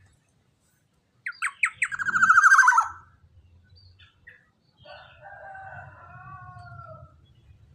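Young black-naped oriole (kepodang) calling: three quick sharp notes, then a loud rapid trill that falls in pitch. After a pause comes a quieter drawn-out call lasting about two seconds.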